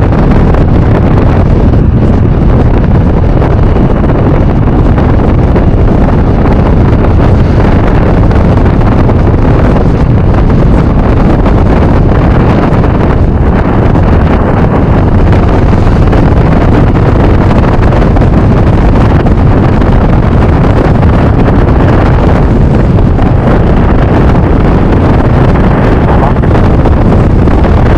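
Steady, loud wind rush buffeting a rider's microphone at road speed, with the Yamaha NMAX scooter's engine and tyre noise beneath it.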